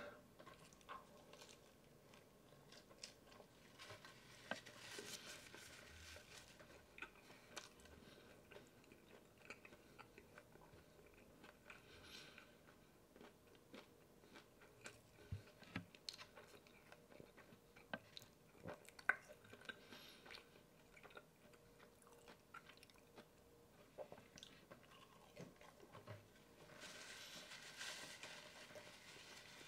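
Close-miked mouth sounds of someone biting and chewing bites of a California burrito: faint wet chewing with scattered small crunches and clicks, a few louder ones in the middle.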